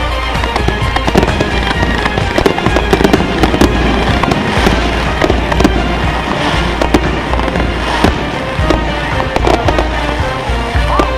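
A dense, continuous barrage of consumer firework shells and cakes going off, rapid bangs and crackling with no pause, over a constant deep rumble.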